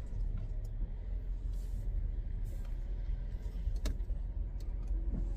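Alfa Romeo coupe heard from inside the cabin with its engine running: a steady low rumble, with a few light clicks, the clearest about four seconds in.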